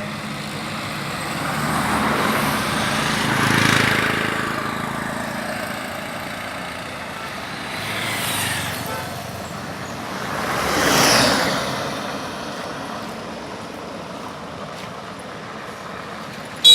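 Street traffic: a steady hum of road vehicles, with several vehicles passing close by. The loudest passes swell and fade about three to four seconds in and about eleven seconds in. A sharp click comes at the very end.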